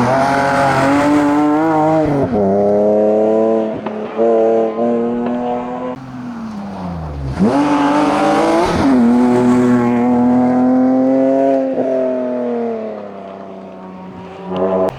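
Hillclimb race car engine at full throttle, revs climbing and dropping sharply at an upshift about two seconds in. Around six seconds in the revs fall away, then climb hard again with another upshift near nine seconds. The engine then fades as the car pulls away up the hill.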